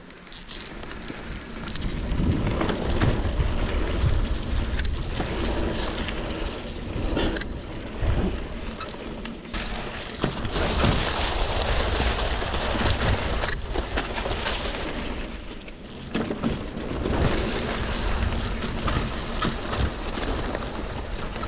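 Mountain bike descending a rough trail: continuous rattling and crunching of tyres and frame over stones and bumps, with three short, high squeals from the brakes.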